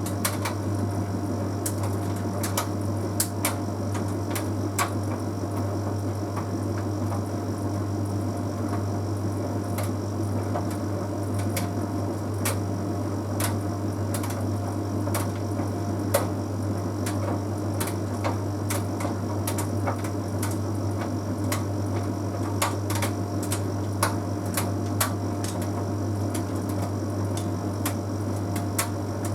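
Bosch Series 6 heat pump tumble dryer running mid-cycle: a steady low hum from the machine, with irregular light clicks and taps from a half load of synthetic laundry tumbling in the turning drum.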